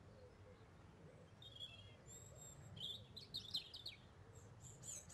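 Faint outdoor birdsong: a few short runs of high chirps and twitters over a low, steady background rumble.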